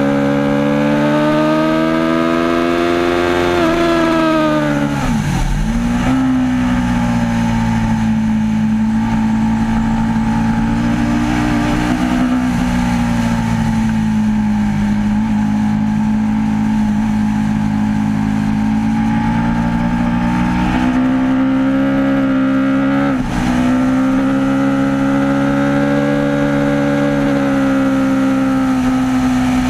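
Aprilia RSV4 APRC's 65-degree V4 engine running under throttle. Its pitch rises slowly, drops sharply about four seconds in and climbs back, then holds fairly steady apart from one brief dip about three-quarters of the way through.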